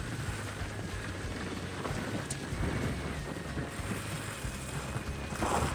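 Steady low rumble of a vehicle on the road, with wind noise on the microphone.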